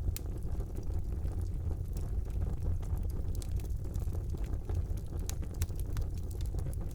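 Wood fire burning in a fireplace: a steady low rumble of the flames with scattered sharp crackles and pops of burning wood, one of the sharpest just after the start.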